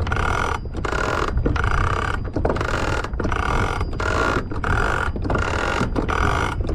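Antique double-action manual anchor windlass being cranked, hauling in anchor chain: a mechanical ratcheting noise repeating with each stroke of the handle, about one stroke every three-quarters of a second, over a steady low rumble.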